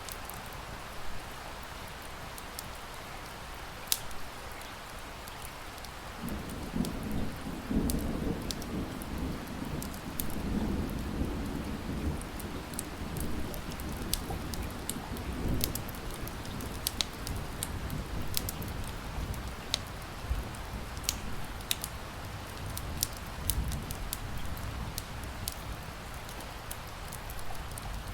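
Wood fire crackling with frequent sharp pops over steady rain, and a low rumble of thunder that sets in about six seconds in and rolls on.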